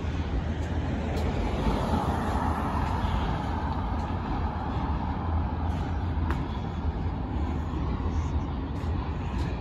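Steady low rumble and roar of a passing Union Pacific auto-rack freight train, with a few faint clicks.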